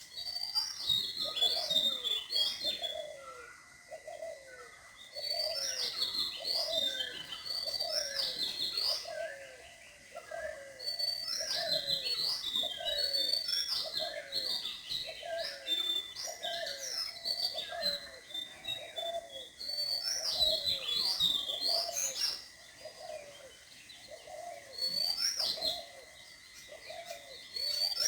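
Birds chirping and singing in repeated bouts of quick notes, a few seconds at a time with short lulls between, over a faint steady high tone.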